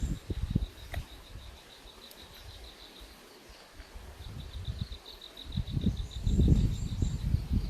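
An insect, cricket-like, trilling in a rapid, even pulse of about six chirps a second, fading out around two seconds in and returning strongly about four seconds in. Irregular low thumps and rumble grow loud in the second half and are the loudest sound.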